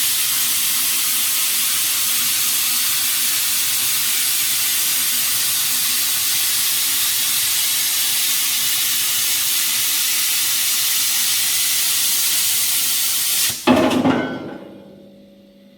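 Plasma torch cutting pipe on a CNC pipe cutter, a loud steady hiss. Near the end it stops with a sharp pop, and the sound dies away over a second or so.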